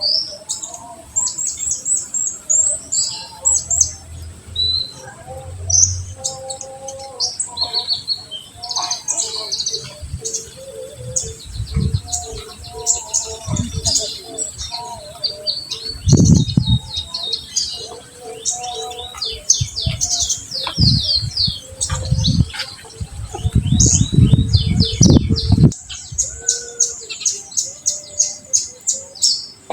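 Kolibri ninja, a sunbird, singing a dense run of rapid, high chirps and trills in quick series. Low rumbles come several times, heaviest from about 23 to 26 seconds in.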